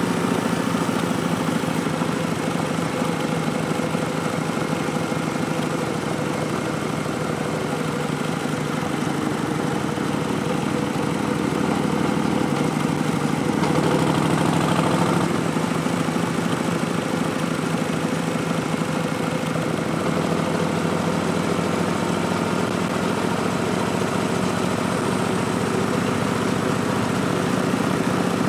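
Harley-Davidson Street Bob's Milwaukee-Eight 107 V-twin running through Vance & Hines Twin Slash slip-on exhausts. It holds a steady rumble, then rises and swells in engine speed about halfway through before settling back.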